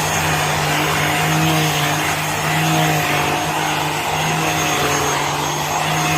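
PerySmith Xtreme V10 700 W dust mite vacuum cleaner running loudly and steadily, then stopping abruptly near the end.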